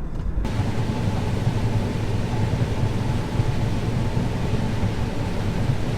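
Combine harvester running steadily while harvesting corn: a constant low drone with a hiss over it.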